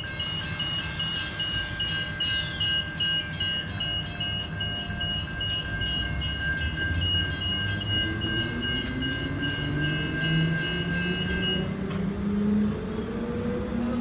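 Level crossing warning bells dinging rapidly and steadily, then stopping near the end. Under them an electric train's traction motors whine, rising steadily in pitch as it pulls away. A high whine falls in pitch over the first few seconds.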